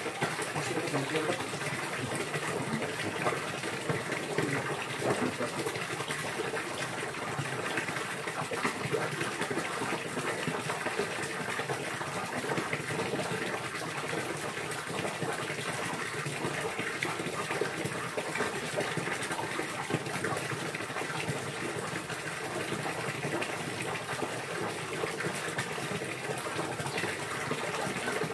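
Steady gushing, splashing running water, unbroken throughout, played as a therapy sound to get caged songbirds singing and into breeding condition.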